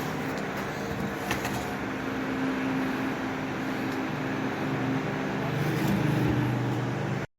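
CNC wood router running with a steady machine hum, cutting off suddenly just before the end.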